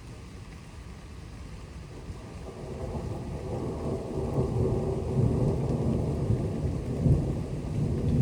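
Rolling thunder: a low rumble that builds about two and a half seconds in and peaks near the end, over a steady hiss of rain.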